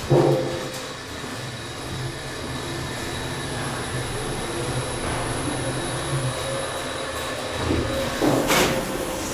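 KONE Monospace machine-room-less traction elevator with a glass car, travelling: a steady running hum from the car and drive, with faint steady tones. It opens with a short pitched sound, and there are a couple of brief knocks near the end.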